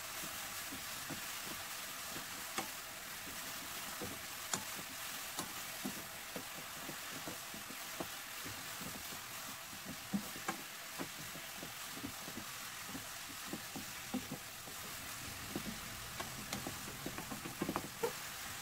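Julienned burdock root sizzling in a pan in its soy-sauce glaze, stirred with a wooden spatula that gives scattered light taps and scrapes against the pan.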